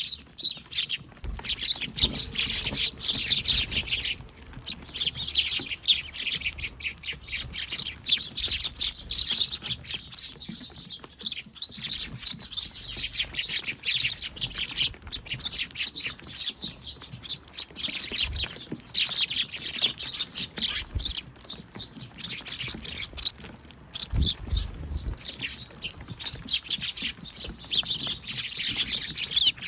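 A flock of Eurasian tree sparrows, young birds among them, chirping rapidly and continuously, in overlapping bouts that swell and fade every few seconds.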